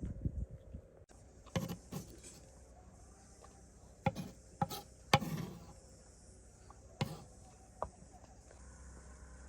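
Scattered knocks and clinks, about seven of them spread irregularly, the loudest around the middle, over a faint steady high-pitched hiss like insects buzzing.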